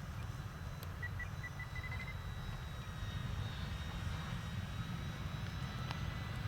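Faint steady whine of the flying 3D-printed Zero model's motor over a low rumble. About a second in comes a quick run of short radio transmitter beeps that step slightly up in pitch, the sound of the elevator trim being clicked.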